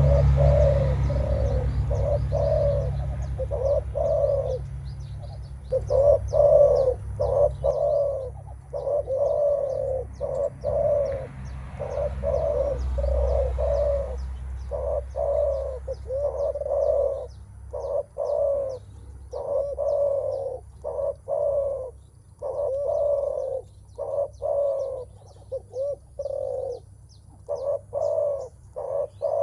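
Spotted dove cooing over and over in short runs of low coos. This is the 'menguku' challenge call that a male gives on facing a rival, before a contest of strength. Faint high chirps tick in the background.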